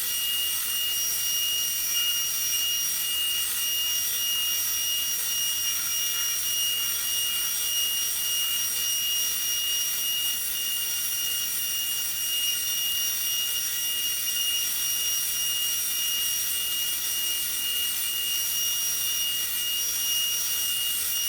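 2x72 belt grinder running steadily while a knife handle is shaped on it: an even hiss of the belt with a steady high-pitched whine.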